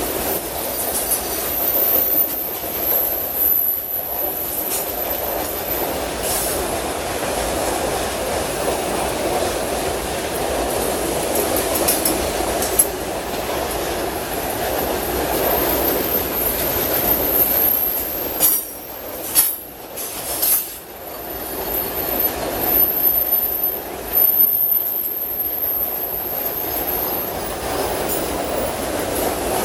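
Train wagons rolling past on the rails in a steady rumble, with a thin high wheel squeal that comes and goes. A few sharp rail clacks come about two-thirds of the way through.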